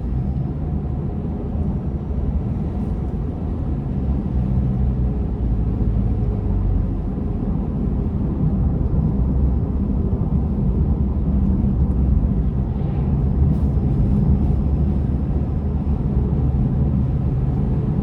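Steady low rumble of a car driving, heard from inside the cabin: engine and tyres on the road.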